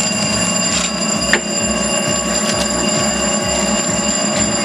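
Arcade love-tester machine giving off a steady, high electronic ringing tone while it works out a reading, over a busy background din.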